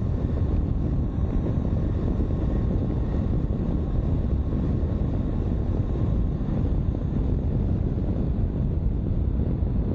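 Steady wind rush on the microphone while riding a 2022 Honda CB500X motorcycle, mixed with the bike's engine and road noise.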